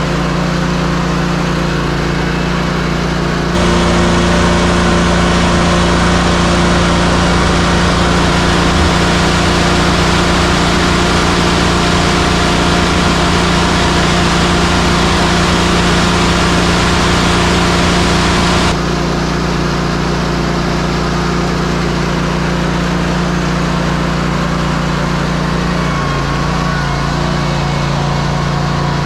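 Concrete mixer truck's diesel engine running steadily, with a louder stretch from a few seconds in until about two-thirds of the way through, which starts and stops abruptly.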